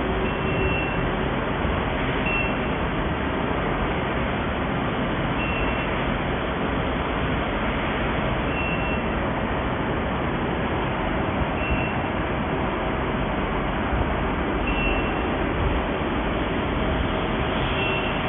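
Steady machine hiss and hum from a mini induction melting furnace running, with a short high beep about every three seconds.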